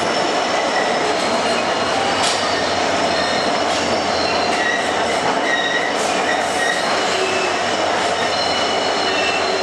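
Train of ICF passenger coaches running steadily along the track, with a continuous rolling rumble from the wheels on the rails. Thin high-pitched wheel squeals come and go over it, and there are a couple of sharp clicks, one about two seconds in and one near the middle.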